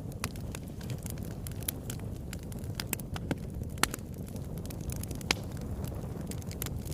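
Wood fire burning in a fireplace: a steady low rush of flames with frequent sharp crackles, and several louder snaps standing out.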